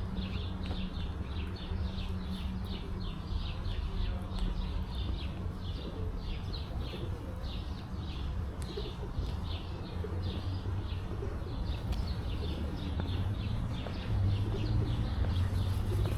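Small birds chirping in a long run of short, high notes, about two to three a second, over a steady low rumble that gets louder near the end.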